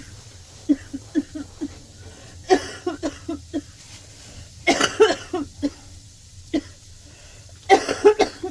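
A woman coughing hard in repeated fits, a few short coughs followed by three louder bouts, the loudest near the middle and near the end; a chesty cough from a cold.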